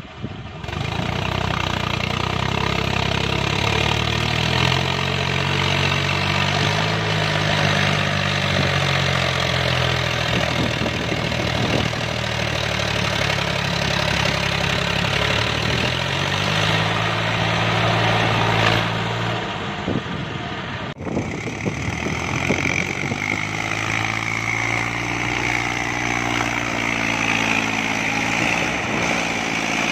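Tractor engine running, its pitch rising and falling as the revs change. About 21 s in the sound cuts, and the engine goes on with a steadier pitch and a high whine.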